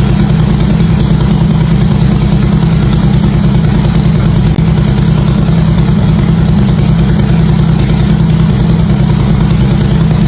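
Harley-Davidson V-twin motorcycle exhaust idling steadily at a loud, even level, with a deep low rumble and no revving.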